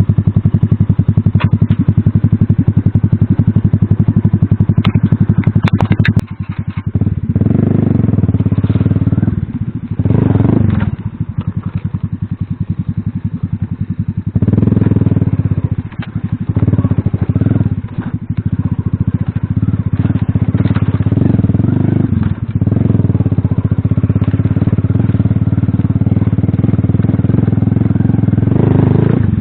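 Alpha moped's small single-cylinder four-stroke engine running under load on a rough trail. The throttle closes and reopens repeatedly, so the engine note drops several times and picks back up. A few sharp clicks and rattles come in the first several seconds.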